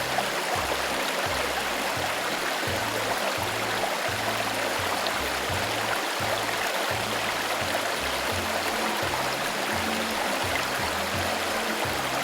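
Steady rush of flowing stream water, over background music with a steady bass line.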